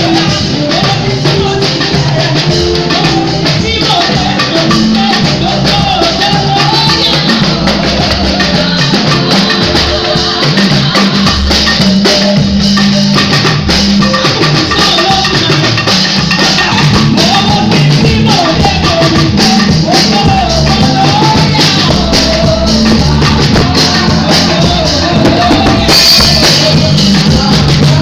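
Loud live gospel band music: drums and shaker percussion under a wavering melody line.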